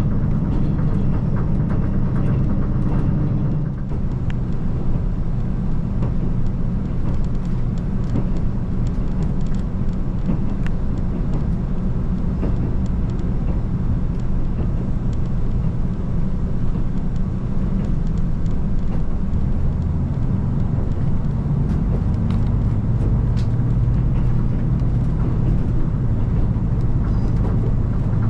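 KiHa 185 series diesel railcar running along the line: a steady low diesel engine drone mixed with wheel-and-rail noise and occasional faint clicks. The engine note dips briefly about four seconds in, then runs steadily again.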